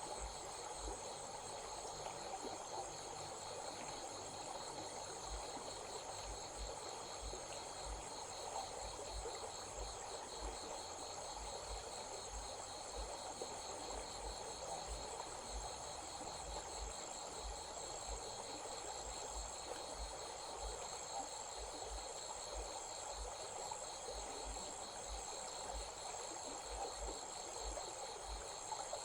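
Insects trilling steadily at dusk, two high rapid pulsing trills layered together, over the even rush of a small stream.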